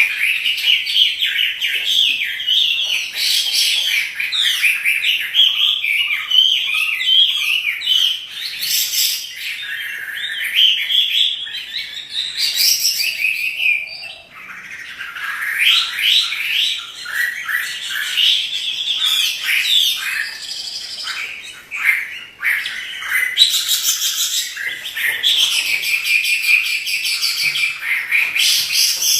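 Chinese hwamei singing in full song: a long, loud run of rapid, varied whistled phrases that breaks off briefly twice.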